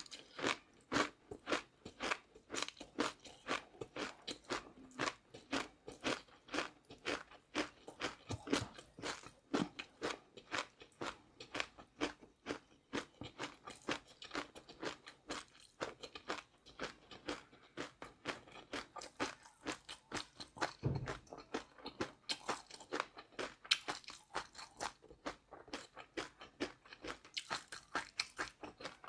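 Close-miked chewing of crunchy food: a steady, rapid run of crisp crunches, a few each second, as mouthfuls are bitten and chewed.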